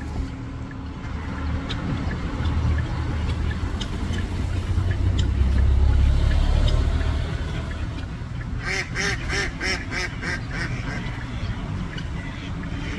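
Flamingos honking: a quick run of about eight or nine nasal, goose-like calls lasting around two seconds, a little past the middle, over a steady low rumble.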